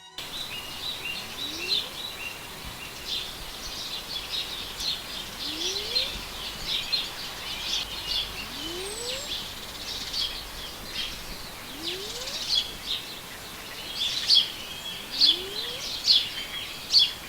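Recorded birdsong: a busy chorus of small birds chirping, with a faint low rising call repeated about every three seconds.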